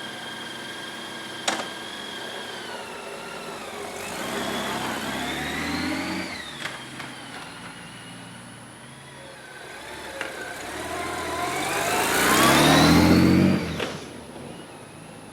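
Honda Goldwing's flat-six engine pulling away and accelerating twice, its note climbing in pitch each time; the second pull is the louder and ends abruptly about a second and a half before the end.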